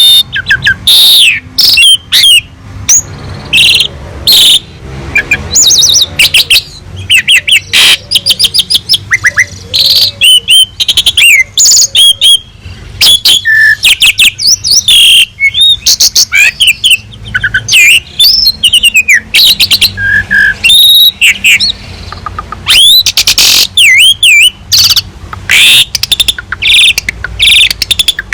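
Asian pied starling singing continuously: a loud, rapid run of varied whistles, rising and falling glides, chatters and sharp clicks, with barely a pause.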